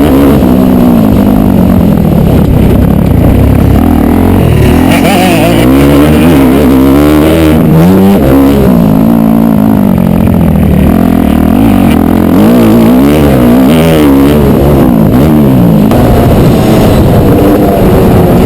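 Motocross dirt bike engine running hard, its pitch climbing and dropping back again and again as it revs up and eases off.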